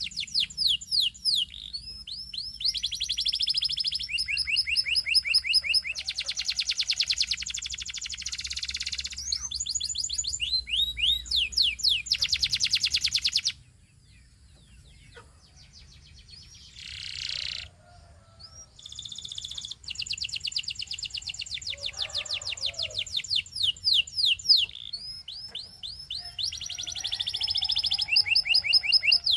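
Domestic canary singing long trilling phrases of rapid repeated notes and rolls. The song pauses for several seconds about halfway through, then starts again.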